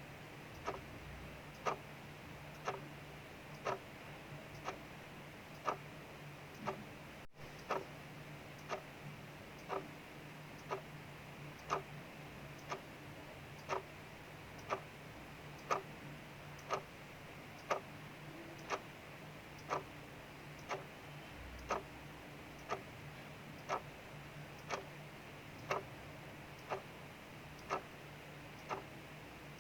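Clock ticking steadily, about one tick a second, over a faint steady hiss of rain.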